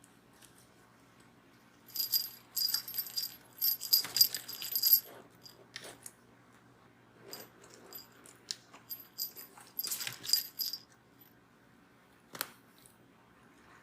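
A kitten batting a cat toy with a small bell, which rattles and jingles in two quick bouts with a single sharp click near the end.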